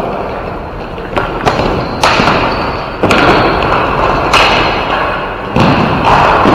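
Ball hockey play: about six sharp knocks and thuds over a few seconds as sticks strike the ball and the ball or players hit the rink boards.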